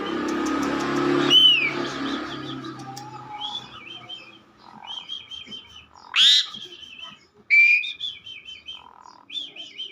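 Asian pied starling (jalak suren) singing: short repeated warbling phrases with two loud sweeping whistles a little past halfway. A steady noise with a low hum sits under the first couple of seconds, then fades.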